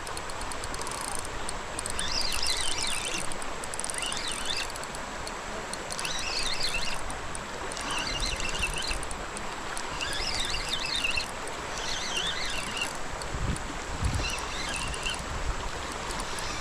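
Creek water running steadily, with a bird singing short, repeated chirpy phrases about every two seconds. A couple of low thumps come near the end.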